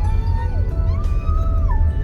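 A dog whining in two long cries, each rising, holding and then dropping in pitch, the second one higher.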